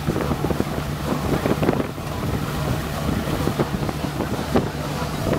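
Strong wind buffeting the microphone in irregular gusts over the steady low hum of a river boat's engine.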